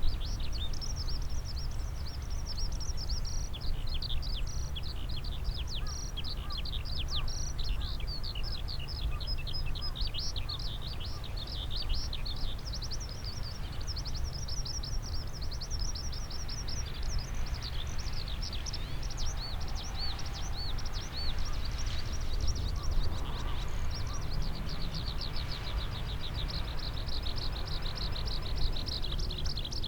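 Songbirds chirping and calling in quick, high, repeated notes, thickening into a dense rapid trill near the end, over a steady low rumble.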